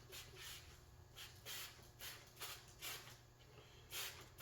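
Soapy lubricant being put onto a motorcycle inner tube before the tyre goes on: a run of soft, short hissing strokes, about two a second.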